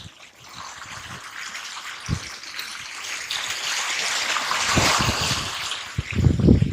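Rushing water that swells over several seconds and then eases, with a few dull low thumps, one about two seconds in and more near the end.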